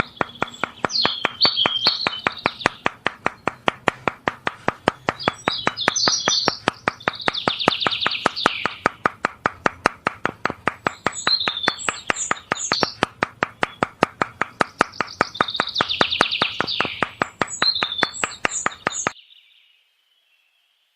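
Birds chirping and warbling over a steady ticking of about five clicks a second, with a low hum beneath. It cuts off abruptly near the end.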